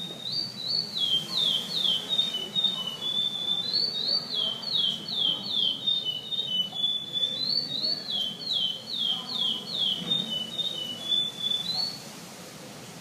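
Curió (chestnut-bellied seed finch) singing a long song of clear whistled notes, mostly quick downward slurs in runs with flatter notes between. It is the pardo song type, the style it competes in, and it stops about 12 seconds in.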